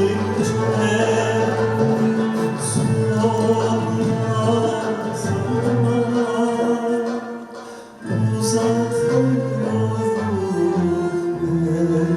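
A Turkish classical music choir singing held, sustained lines with instrumental accompaniment. The sound dips briefly about eight seconds in, then the singing comes back in.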